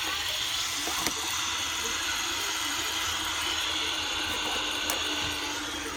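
iRobot Roomba robot vacuum running, a steady whirring noise from its fan and brushes, with a low steady hum joining about halfway through.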